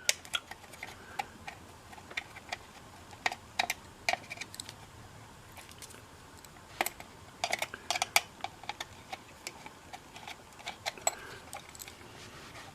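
Irregular small clicks and taps of a screwdriver and small screws and nuts against a painted radio chassis while the screws of a coil form socket are tightened by hand.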